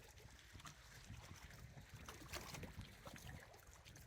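Near silence: a faint low rumble with scattered light ticks.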